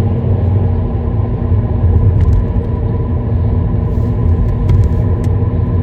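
Steady low rumble of a car driving, heard from inside the moving vehicle, with a faint steady hum over it and a few light ticks.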